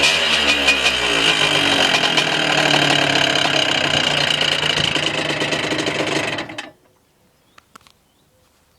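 Yamaha DT80 dirt bike's two-stroke single-cylinder engine running, its revs falling back just after the start and then holding steady. The sound cuts off suddenly about six and a half seconds in.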